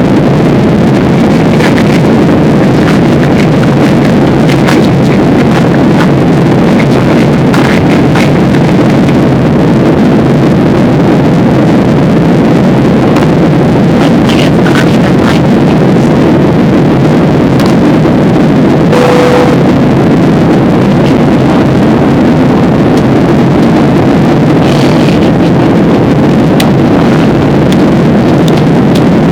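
Steady noise inside a passenger airliner's cabin in flight: a constant low engine and airflow noise with no change in pitch. A short steady tone sounds once about two-thirds of the way through.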